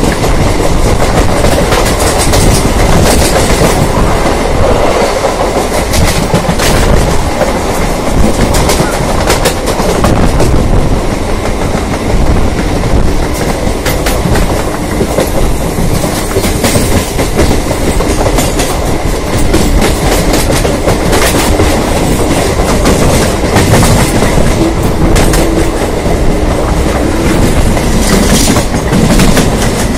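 Two Eastern Railway suburban electric local trains (EMUs) running side by side, heard from an open coach doorway: a loud, steady rumble with wheels clacking over rail joints throughout. A faint steady hum joins in for a stretch in the middle.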